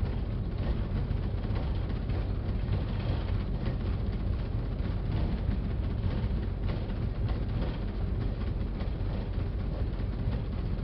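Cartoon train sound effect: the steady low rumble and rattle of a moving train pulling its wagons.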